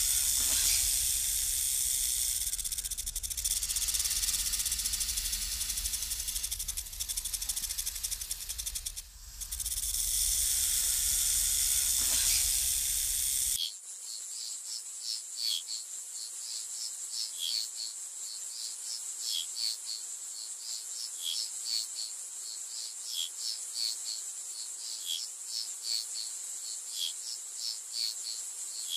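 Outdoor insect chorus in two parts. First a loud, even high hiss over a low rumble, which cuts off abruptly about halfway through. Then a quieter steady high drone laced with quick, repeated short chirps.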